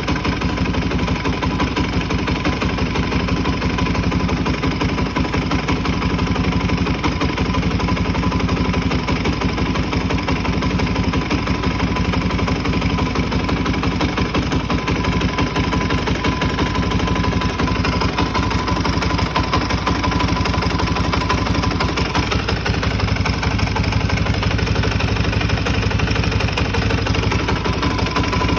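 Suzuki DR-Z400E single-cylinder four-stroke engine, big-bored to 430cc with a Vertex piston, idling steadily with a nasty knock of unknown cause.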